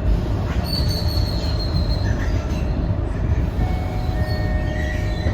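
Scania K230UB city bus heard from inside, its engine and drivetrain giving a steady low rumble, with a high brake squeal about a second in as it pulls up at a stop. Near the end, a few steady higher tones begin.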